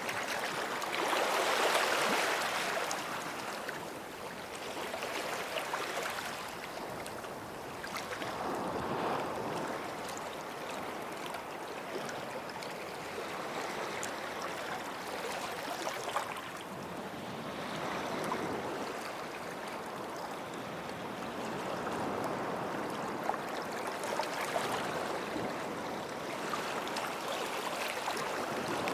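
Small sea waves washing up on a sandy shore and drawing back, the surf swelling about every eight seconds, the loudest swell near the start.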